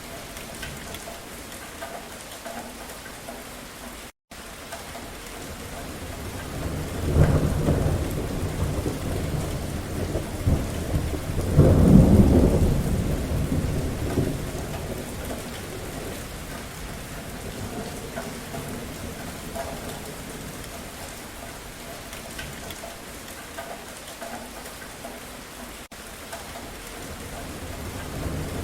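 Steady rain falling with a roll of thunder that builds about seven seconds in, peaks a few seconds later and rumbles away; another rumble of thunder starts right at the end. The sound cuts out completely for a moment about four seconds in.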